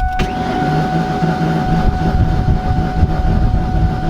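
Ford 4.6 V8 being cranked by its starter, spinning over evenly with a steady whine but not firing. It spins freely, which the owners put down to no compression after the head gasket failure.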